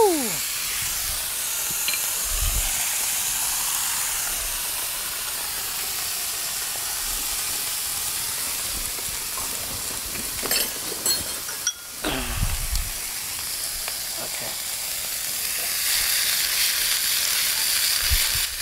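Mixed vegetables and a steak frying in hot oil in two frying pans: a steady sizzling hiss that grows a little louder near the end. A short falling tone right at the start, and a few light clicks about ten seconds in.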